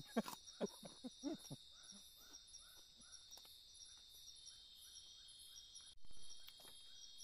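Steady, high-pitched chorus of crickets and other forest insects, with faint calls repeating about three times a second. There are a few short sounds in the first second and a half and a dull bump about six seconds in.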